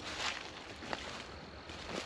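Footsteps of a person walking through woodland leaf litter, with one sharp click about a second in.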